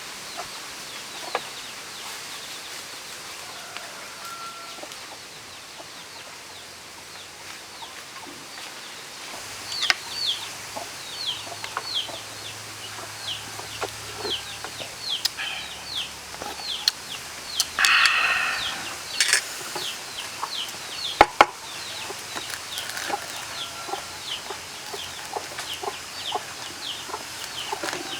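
Chickens calling: a long run of short, falling peeps, several a second, starting about a third of the way in, with a louder harsh squawk-like burst past the middle. A few sharp knocks are also heard.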